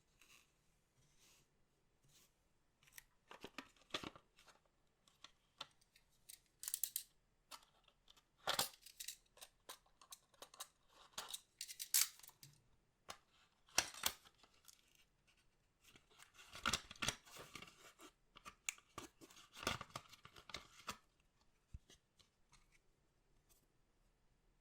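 Trading-card packs being opened and handled: crisp crackling, rustling and clicking in irregular bursts of a second or so, several of them close together from about sixteen to twenty-one seconds in.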